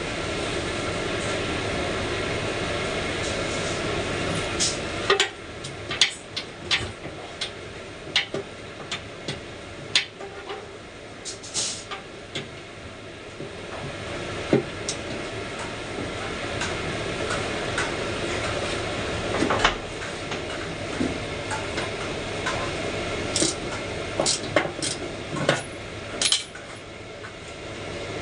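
Metal parts and hand tools clinking and knocking at irregular intervals during repair work on a dough divider, over a steady background noise that is louder for the first few seconds.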